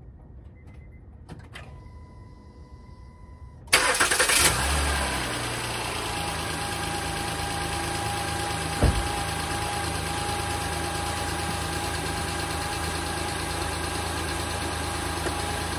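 2015 Honda Pilot's 3.5-litre i-VTEC V6 cranked and started about four seconds in, flaring briefly, then settling into a steady idle. This is the first start on a freshly replaced timing belt, and it runs without the belt noise it had before the repair.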